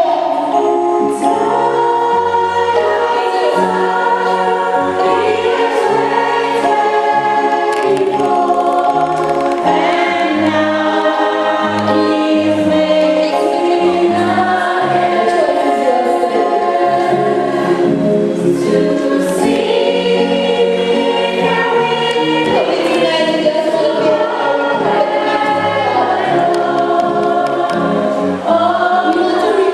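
Choir singing a gospel hymn in long held chords over a stepping bass line.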